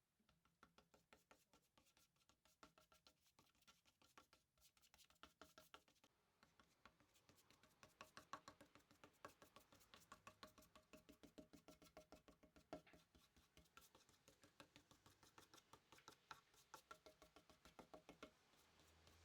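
Faint, rapid tapping or clicking, several taps a second, each with a short ringing tone.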